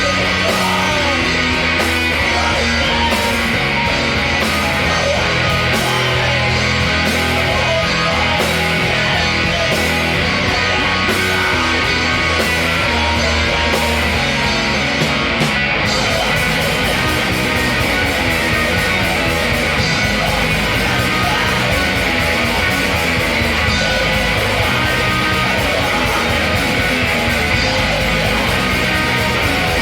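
Rock band playing a song, with guitar prominent in a dense, loud mix. About halfway through, the top end gets brighter and fuller.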